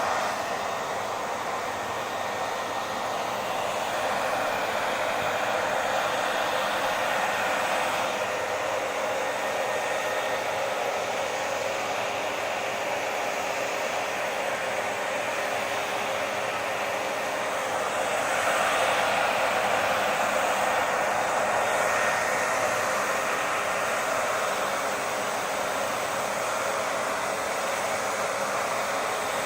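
Hair dryer running continuously, a steady rush of air with a faint steady motor whine. It grows slightly louder for a few seconds twice.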